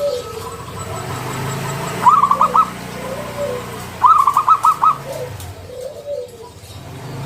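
Zebra dove (perkutut) cooing. Two bursts of quick staccato notes come about two seconds apart, with softer arched coos between them.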